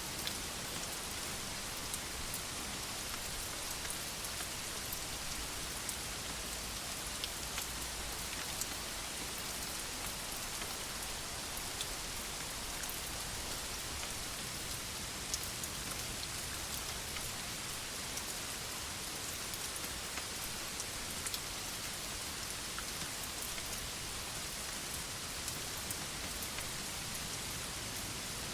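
Steady rain falling on a veranda, an even hiss with scattered sharp drop ticks and no thunder.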